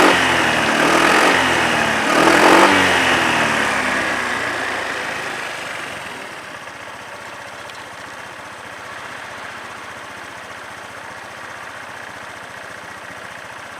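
Honda PCX125 scooter's single-cylinder four-stroke engine revved twice in quick succession near the start, then falling back and settling to a steady idle from about six seconds in. The seller describes the engine as in good running order.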